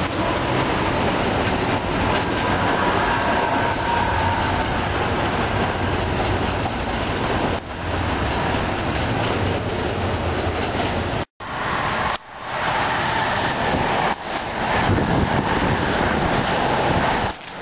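NJ Transit Arrow III electric multiple-unit trains running through the station in rain, a steady loud rush of wheels on rail mixed with rain. It drops out abruptly a little past the middle, then another train passes close by.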